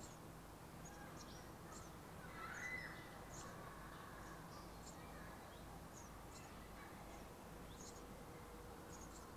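Faint outdoor ambience: short, scattered high bird chirps over a low steady hum, with one slightly louder call about two and a half seconds in.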